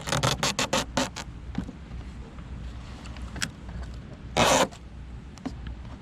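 Handling noises from opening up an RC airboat to get at its battery: a quick run of about eight scraping clicks in the first second, a few light ticks, then a short, loud rasp about four and a half seconds in.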